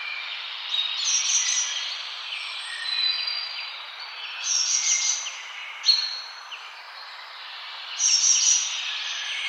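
Forest birds singing and chirping in short high phrases, several overlapping, over a steady background hiss.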